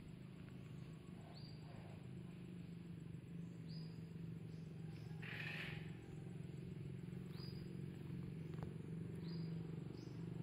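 Faint outdoor ambience: short, high, slightly falling bird chirps every couple of seconds over a steady low hum. A brief noisy burst comes about five seconds in.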